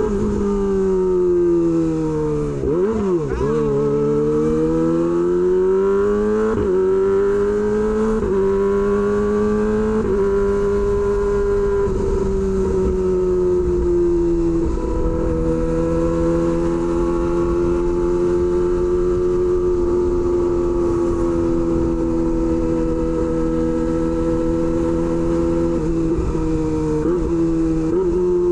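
Kawasaki Ninja ZX-25R's inline-four engine through an SC-Project aftermarket exhaust, heard from the rider's position under way. The revs fall and climb again about three seconds in, change in a few quick steps over the next several seconds as gears are shifted, then hold steady at cruise, with a low wind rumble underneath.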